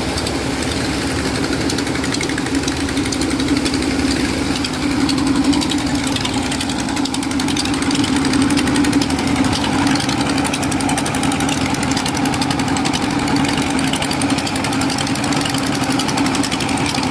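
Engine running steadily under constant load for sand pumping, with a fast, even beat over a steady hum.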